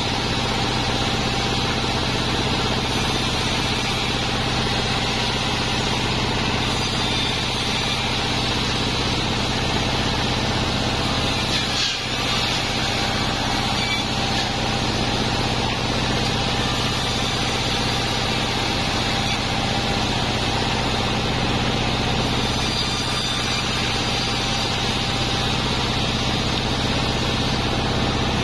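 A 36-inch sawmill bandsaw running steadily, a constant machine hum with a brief dip about twelve seconds in.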